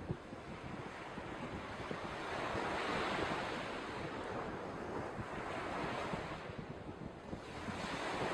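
Wind and small waves washing against a reservoir shore, a steady rushing that swells twice, with a short knock at the start.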